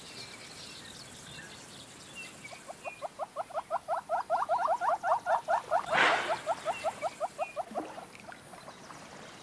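An animal's rapid call: a run of short, rising, repeated notes at about six or seven a second, swelling and then fading over about five seconds, over faint high bird chirps. A single sharp click about six seconds in.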